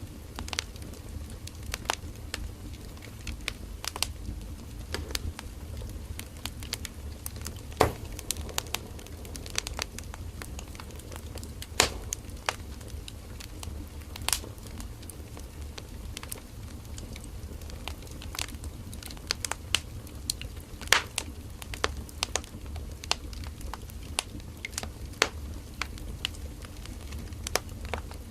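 Burning firewood crackling and popping, irregular sharp snaps of varying loudness over a steady low rumble of the fire.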